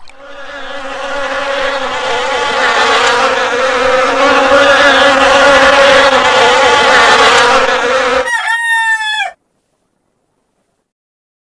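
A swarm of honeybees buzzing at a hive entrance: a dense, steady hum that swells in loudness. About eight seconds in it cuts to a short bird call of quick, falling notes lasting about a second, then everything stops dead.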